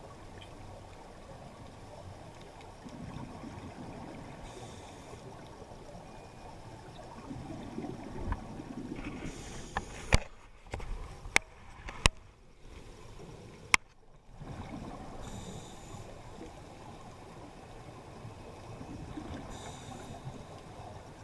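Underwater rush of water in a strong current, with bursts of scuba diver's exhaled regulator bubbles every few seconds. Four sharp clicks come midway, followed by a brief quieter spell.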